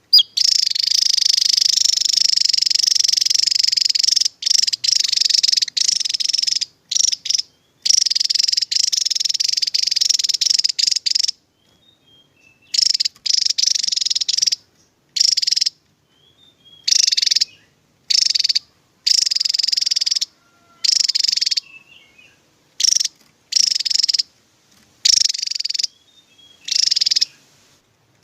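Javan tesia song in its rapid 'tembakan' form: high, dense buzzing trills in bursts. The first few bursts run several seconds each, and the later ones are about a second long, with short silences between.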